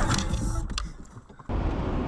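Car driving noise picked up by a dashcam, with a few sharp clicks, fading low about a second in, then broken off abruptly by a cut to louder road noise.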